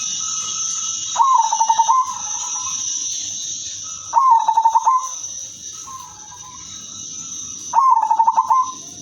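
Female zebra dove (perkutut) cooing: three short phrases about three seconds apart, each a quick rising note followed by a fast stuttering run of coos, with a steady high-pitched hiss behind.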